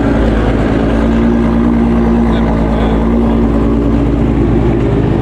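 A car engine running steadily at close range, a loud, even drone with a slight change in pitch near the end.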